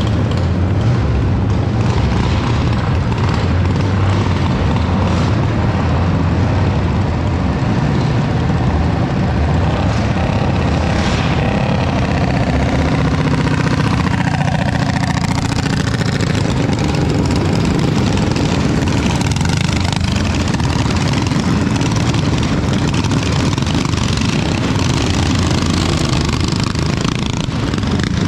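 Small single-cylinder mini bike engines running and revving, with the pitch rising and falling around the middle.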